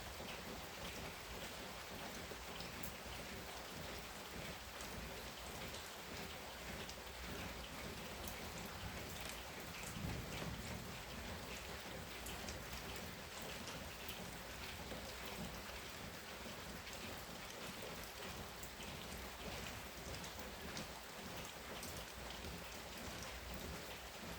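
Heavy rain falling steadily, with many small drop ticks through the hiss. About ten seconds in, a brief low rumble of thunder rises under the rain.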